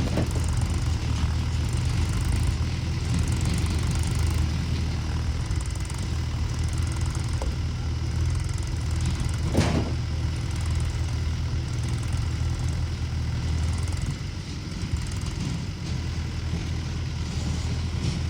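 Tractor diesel engine running steadily, with a single clunk about halfway through.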